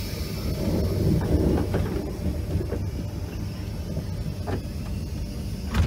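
Inside a passenger carriage of a Thalys high-speed train running along the line: a steady low rumble with a faint high whine above it.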